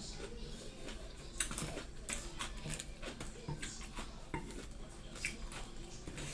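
Eating sounds: a spoon or fork clicking and scraping on a plate in irregular light taps, with chewing.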